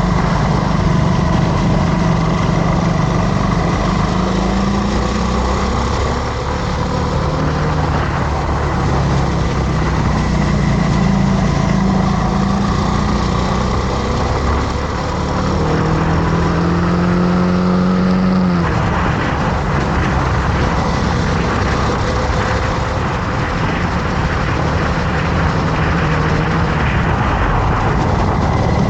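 Motorcycle engine running while riding, its pitch rising and falling with the throttle over a steady rushing noise. About 16 seconds in it revs up, then drops sharply at about 18 seconds.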